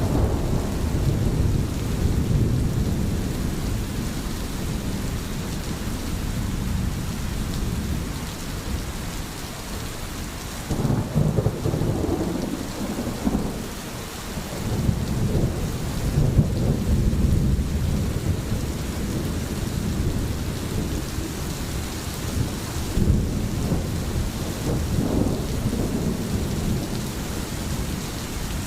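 Steady rain with thunder rumbling, the low rolls swelling several times and loudest around the middle.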